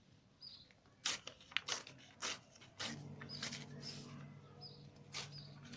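A sheet of paper being torn along the edge of a ruler: a run of short, sharp rips and crinkles, with a steady low hum coming in about halfway.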